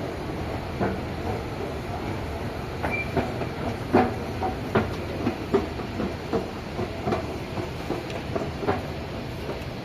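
Recife Metro train running along the track, a steady rumble with an uneven run of sharp clacks from the wheels over rail joints, thickest in the middle.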